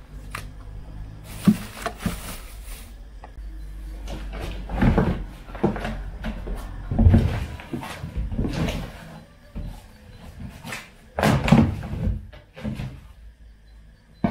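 Unpacking a boxed air compressor: irregular knocks, thumps and rustling of packaging as it is handled, with a few sharp bangs.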